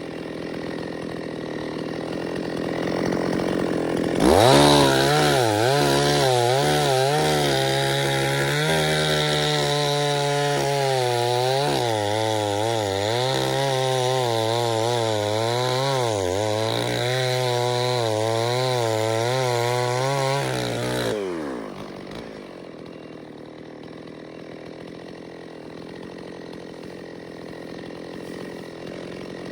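Chainsaw revved to full throttle about four seconds in and cutting into wood for roughly seventeen seconds, its engine pitch wavering under load, then dropping back to a quieter idle.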